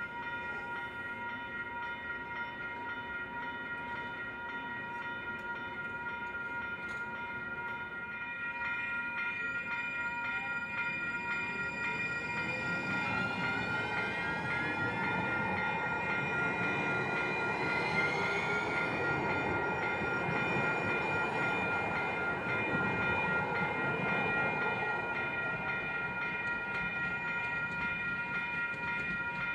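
A train runs through a downtown grade crossing while the crossing bells ring steadily. Partway through the train grows louder and a whine rises in pitch as it picks up speed.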